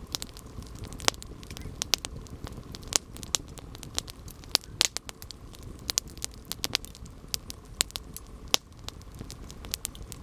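Wood fire burning, with irregular sharp crackles and pops over a low, steady rumble of flame.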